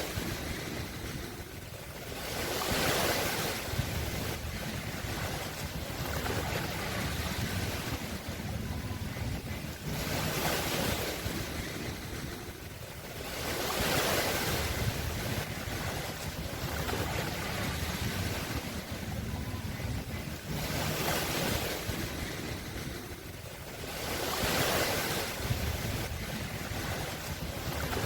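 Sea waves washing onto a shore: a steady hiss of surf that swells as each wave breaks, every few seconds.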